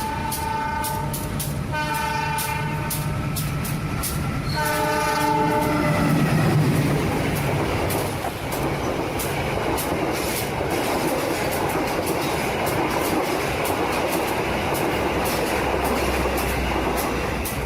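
A train horn sounds three times in the first six seconds, then a train runs on with a steady rumble and a regular clatter of wheels over rail joints.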